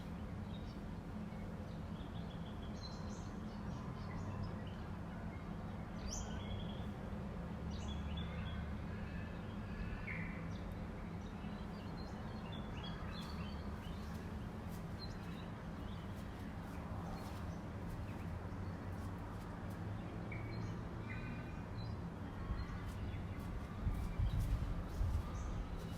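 Dawn bird chorus: many birds giving short chirps and calls in overlapping bursts, over a steady low rumble. Louder low thumps come in near the end.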